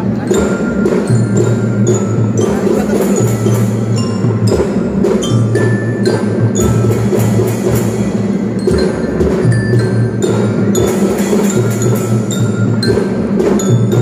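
Children's drum band playing: drums beaten in a steady march rhythm under ringing bell-lyre notes.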